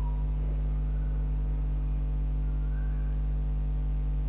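Steady low electrical hum with a buzz of higher overtones, unchanging throughout.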